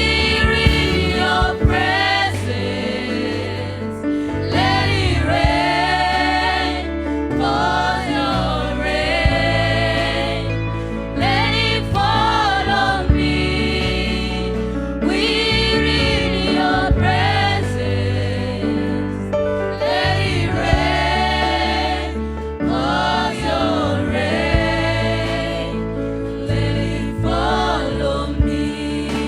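Gospel worship music: a group of singers sings sung phrases over a band with steady bass and keyboard-like chords.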